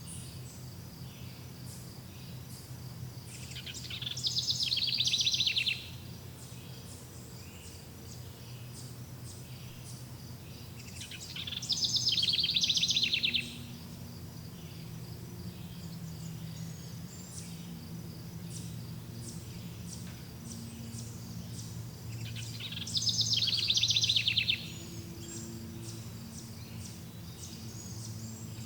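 Outdoor nature ambience: insects chirp steadily and rapidly high up, and three loud buzzy trills, each about two seconds long, come roughly every eight to ten seconds over a low background hum.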